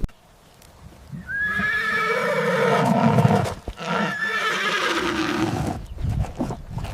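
Horse whinnying twice, two long quavering neighs, followed by a few low thumps near the end.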